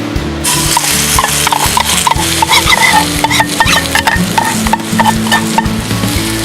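Okonomiyaki batter sizzling on a hot pan: the frying hiss starts suddenly about half a second in and carries on steadily with small crackles and pops.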